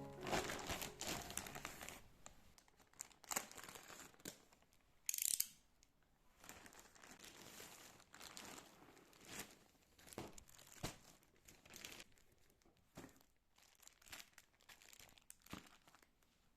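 Packaging crinkling and rustling as it is handled and opened, densest for the first two seconds, with a short sharp tearing sound about five seconds in and softer scattered rustles and clicks after.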